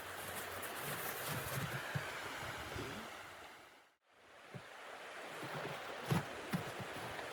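Steady rushing wind noise that fades out to silence about four seconds in and fades back in, with a few soft knocks near the end.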